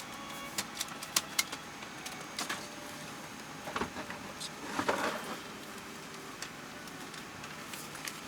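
Airliner cabin during boarding: a steady cabin hiss with scattered clicks and knocks. A few come close together in the first second and a half, and a louder cluster falls around four to five seconds in.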